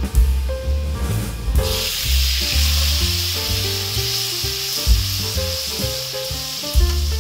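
Fish sauce poured onto hot garlic and oil in a wok: a sizzle starts suddenly about a second and a half in and holds steady while the mixture is stirred with a spatula.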